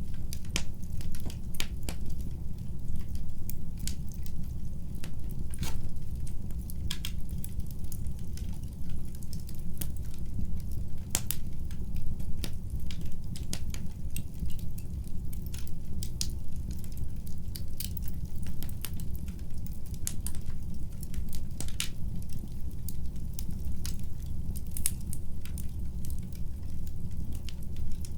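Wood fire burning in a fireplace: a steady low rumble with frequent, irregular crackles and sharp pops.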